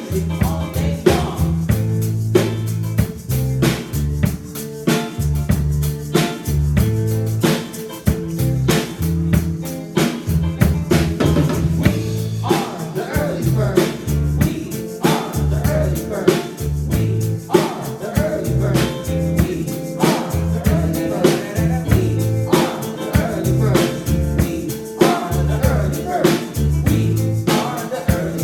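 A live band playing a rock song: a drum kit keeps a steady beat over a bass line and guitar, with singing in places.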